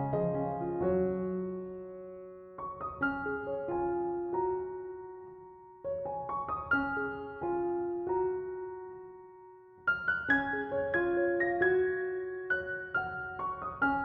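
Slow, gentle piano music: short phrases of a few notes that ring out and fade away, a new phrase beginning every three to four seconds.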